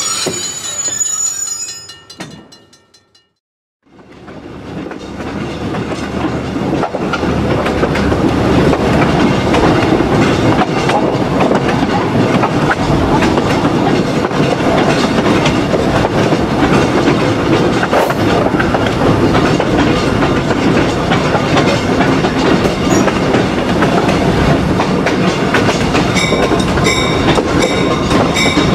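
Wheel noise of a passing train fades to silence within the first few seconds; then the steady rumble and clickety-clack of riding aboard the moving train fades in and runs on. Near the end a bell starts ringing in quick repeated strokes.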